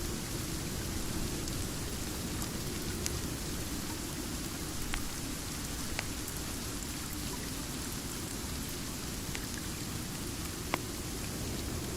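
Steady rain falling, an even hiss with a deeper rush underneath, with a few sharp clicks scattered through it, the loudest one near the end.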